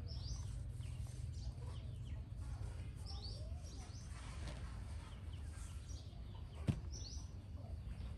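Small birds calling in short, high, downward-sweeping chirps, a few clusters of them, over a steady low background rumble. A single sharp tap about six and a half seconds in.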